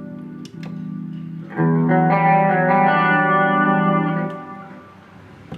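Electric guitar played through a Zoom G3Xn multi-effects pedal on a lightly distorted crunch amp-simulation tone: a chord struck about half a second in, then a louder chord about a second and a half in that rings out and fades away.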